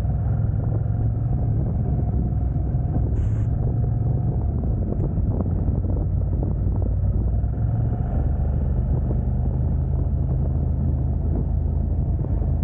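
A car on the move: steady low engine and road rumble with a constant low hum.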